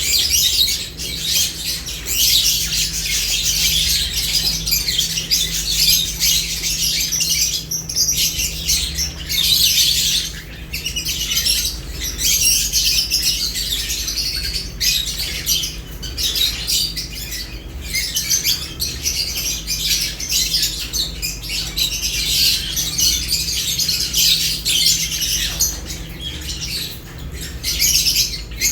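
Lovebirds chirping continuously: many dense, overlapping high-pitched chirps, with a steady low hum beneath.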